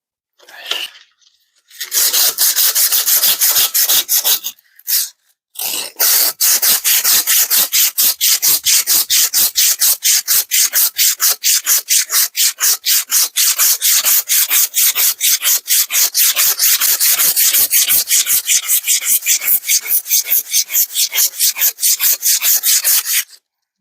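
80-grit emery cloth rubbed quickly back and forth over a rusty steel tractor bucket pin held in a vise, at about five strokes a second, to clean the rust off. The strokes pause briefly about five seconds in, then run on evenly.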